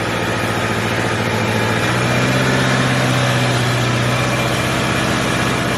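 Subaru Impreza's flat-four engine idling steadily with an even hum, slightly louder about two seconds in.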